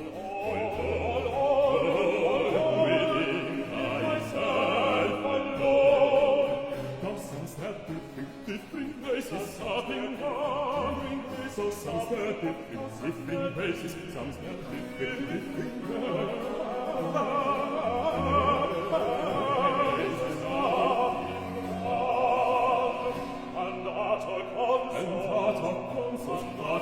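Baroque duet for two bass voices, sung operatically with vibrato over a low continuo accompaniment.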